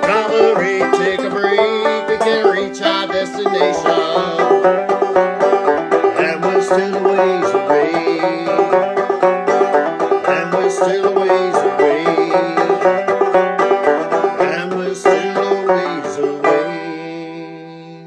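Banjo played clawhammer style: a quick, steady run of plucked notes, ending near the end on a final chord that rings and fades away.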